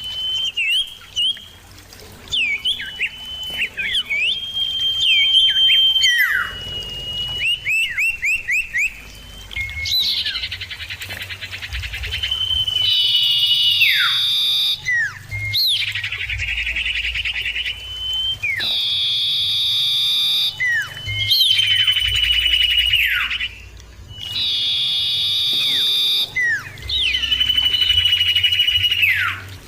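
Common iora (cipoh) singing: clear whistled notes held at one pitch and ending in quick downward slides, alternating with loud buzzy chattering trills, phrase after phrase with short gaps.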